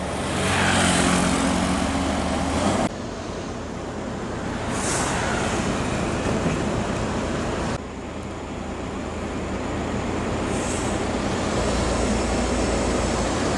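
Heavy diesel trucks running past on a road, engine hum under steady tyre and traffic noise, with a few short high hisses. The sound changes abruptly twice, as if cut between passing trucks.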